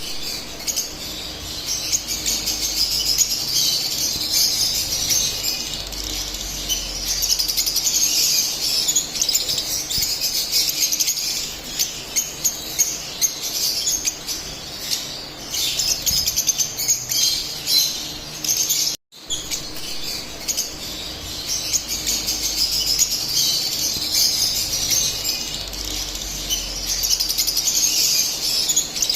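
Lovebirds chirping and chattering, a dense, continuous run of short, high chirps from several birds. The sound drops out for a moment about two-thirds of the way through, then carries on.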